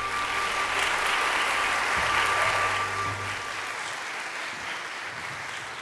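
Audience applauding, strongest at first and then tapering off, with a song's last held note and low bass fading out under it about three seconds in.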